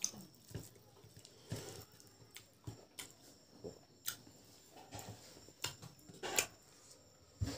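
Close-up mouth sounds of someone eating rice and boiled pork with mustard leaves: chewing with wet lip smacks, mixed with soft squelches of a hand kneading rice on a plate. Scattered short smacks throughout, the loudest about six seconds in.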